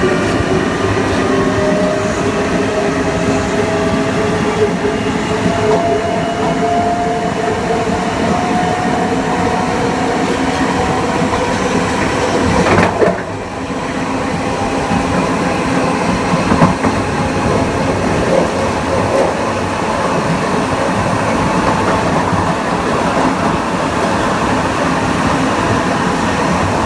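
Kawasaki M9 electric multiple unit under way: the Mitsubishi (MELCO) AC traction motors and IGBT-VVVF inverter whine, with the pitch rising slowly as the train gains speed, over steady wheel and rail noise. A sharp knock comes about halfway through, with a brief dip in the sound.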